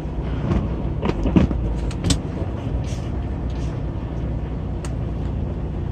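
Tractor-trailer's diesel engine running at low speed, heard from inside the cab, with a few short clicks and knocks in the first two seconds and one more near the end.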